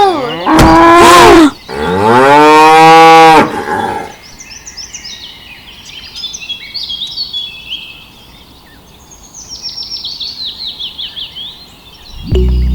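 Cows mooing: two long, loud moos in the first few seconds, followed by birds chirping.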